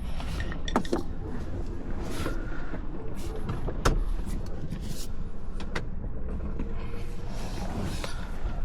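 Hands working on the car's dashboard trim and instrument cluster: scattered plastic clicks and knocks, the sharpest about four seconds in, over a steady low rumble.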